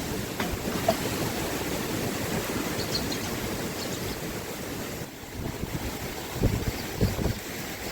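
Wind buffeting the microphone as a steady low noise, with a few low thumps near the end.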